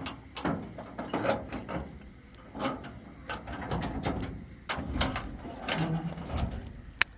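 An irregular series of sharp clicks and knocks from hard objects being handled, with short quiet gaps between them.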